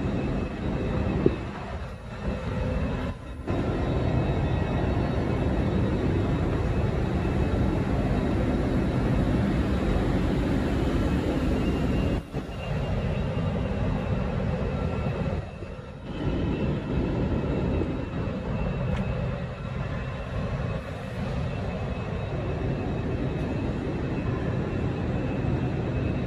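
Steady hum and whir of a Lumo Class 803 electric train standing at the platform, with a few faint steady high tones over it. The sound drops away briefly a few times.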